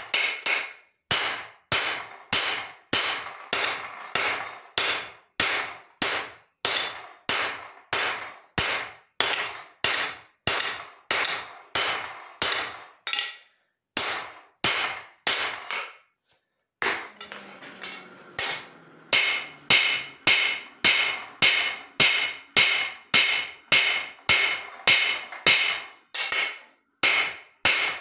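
Hand hammer forging leaf-spring steel on an anvil: a steady run of blows, about two a second, with a short break partway through. After the break the blows ring more, with a clear metallic tone.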